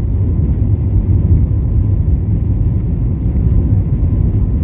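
Steady low rumble of airliner cabin noise: jet engines and rushing air heard from inside the cabin, with a faint steady hum above it.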